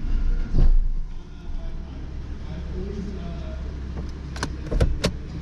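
Vehicle engine idling with a steady low hum, with a thump about half a second in and a few sharp clicks near the end.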